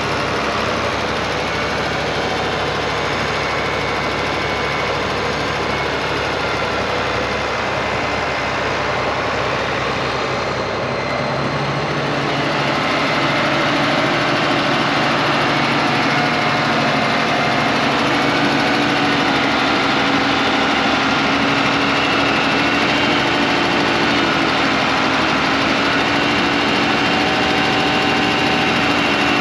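Big diesel engine running steadily, getting a little louder about halfway through as its tone shifts.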